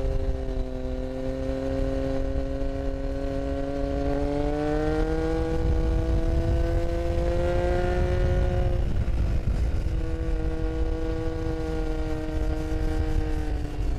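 Motorcycle engine heard from on board while riding. Its note climbs steadily a few seconds in, drops suddenly a little past halfway, then holds steady, over a constant low rumble.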